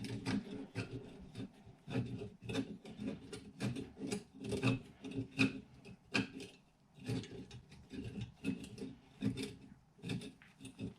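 Small plastic and metal RC truck parts handled by hand: irregular clicks, taps and rubbing as the frame pieces and sway bar end link are worked together.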